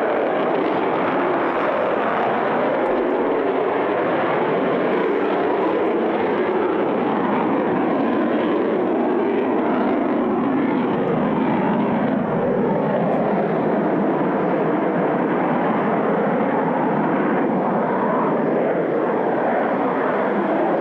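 Sukhoi Su-30MK jet fighter flying its display, its twin turbofan engines making a loud, steady jet noise with no sudden changes.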